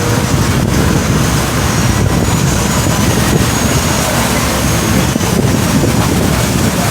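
A boat under way: steady low rumble of the engine and water, with wind buffeting the microphone.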